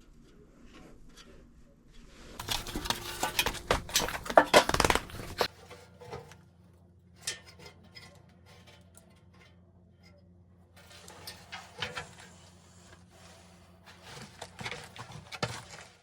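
Metal furnace parts and tools being handled: clusters of clinks, knocks and clattering, loudest a few seconds in and again in the last few seconds, over a faint steady low hum.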